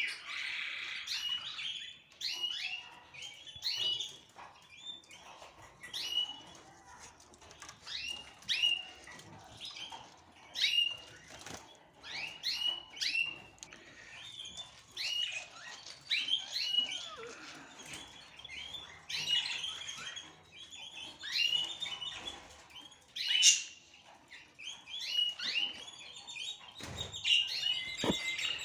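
A group of small cage birds chirping busily in short repeated calls, with scattered sharp clicks and flutters among them.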